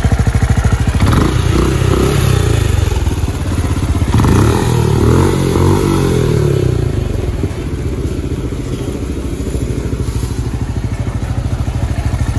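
Benelli Imperiale 400's single-cylinder engine revved up and down a few times, then settling back to a steady idle for the second half. The owner says the first service has largely cured the idle revs that used to climb and drop.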